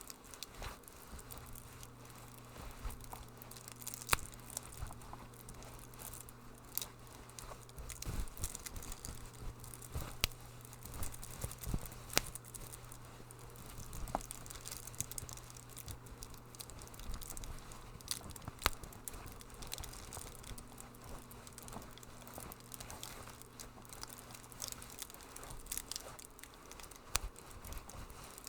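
Wood fire crackling in a fireplace: irregular sharp pops and snaps over a soft hiss, with a low steady hum underneath.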